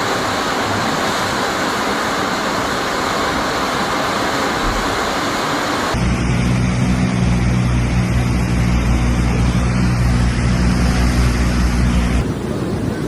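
Swollen, flooding mountain river rushing in a steady loud noise. About six seconds in the sound cuts to a deeper, heavier rumble of the water, and it changes again near the end.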